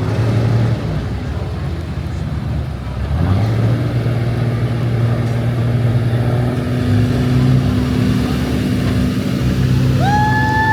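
Pickup truck engine running hard and steady, getting louder about three seconds in, as a truck works under load in a pull. A horn starts sounding near the end.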